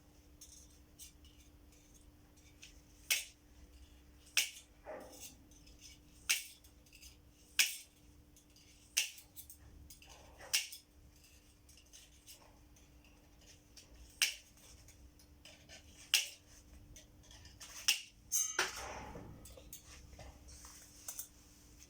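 Reinforcing mesh being cut with cutters, a sharp snap as each wire is severed, about ten snaps spaced a second or two apart.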